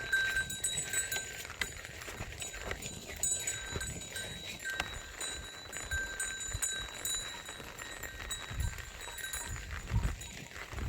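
A flock of sheep grazing close by, with scattered soft clicks and rustles and faint tinkling tones that come and go.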